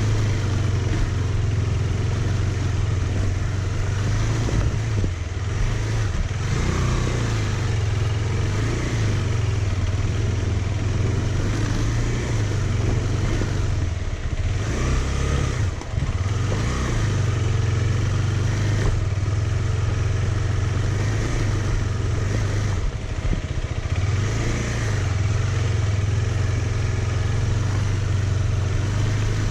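Motorcycle engine running steadily while riding, with wind and road noise. The engine note drops off briefly about halfway through and again later.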